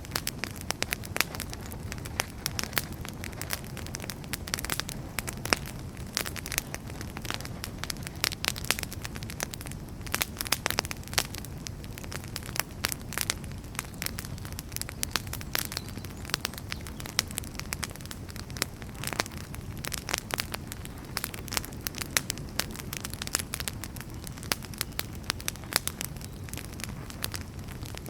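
Firewood burning in a fireplace, crackling with frequent irregular sharp pops over a low, steady rumble of the flames.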